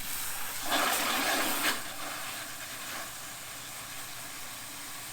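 Water from a hose rushing into a car-wash bucket with soap in it, a steady hissing spray that is louder for about a second near the start.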